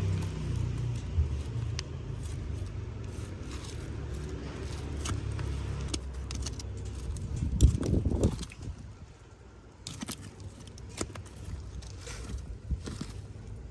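Keyboard being cleaned by hand: scraping and rubbing over a low rumble for about eight seconds, then scattered light plastic clicks.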